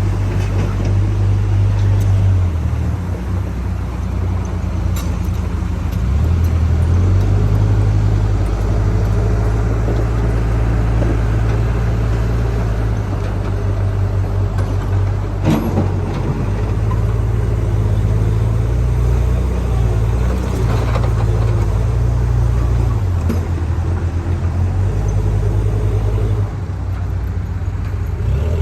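Backhoe loader's diesel engine running, its low drone rising and easing as the load changes, with a few metallic clanks, the loudest about halfway through.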